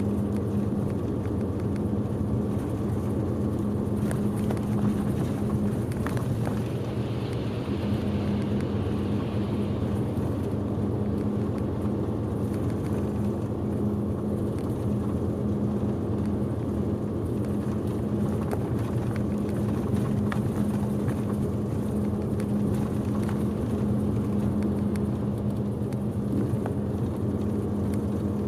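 Bus engine and road noise heard from inside the cabin while the bus is under way: a steady drone with a constant low hum and a few light rattles.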